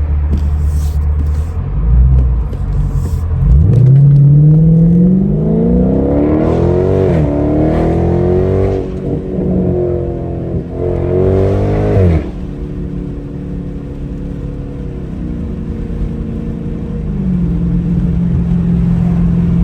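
V8 engine of an SRT muscle car pulling hard under acceleration: its pitch climbs for several seconds, drops at a gear change about halfway through, climbs again, then falls off suddenly as the throttle is lifted and settles into a steady cruise.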